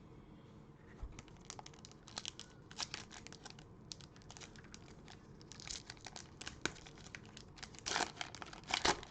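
Cellophane wrapper of a trading-card cello pack crinkling and tearing under the fingers, in short crackles that grow denser and louder near the end.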